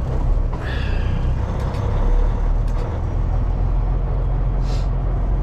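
Kenworth W900L semi truck's Cummins X15 diesel engine, heard as a steady low rumble from inside the cab while the loaded truck is under way. A short hiss comes near the end.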